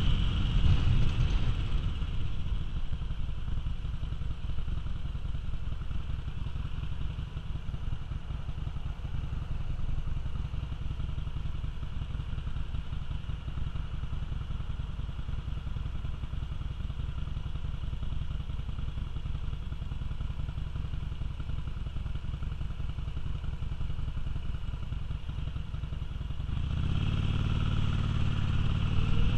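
Cruiser motorcycle engine idling with a low, even rumble while stopped at a light, after the wind rush fades as it slows. Near the end the throttle opens and the engine note rises as it pulls away.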